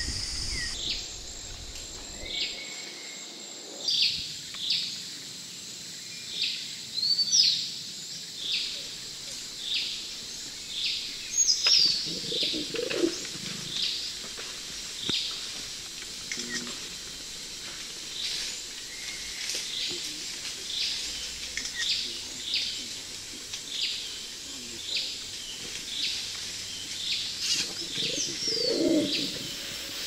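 A rainforest bird calling over and over, a short high falling chirp about once a second, with a couple of lower calls in the background. A steady high hum fills the first two seconds, then stops.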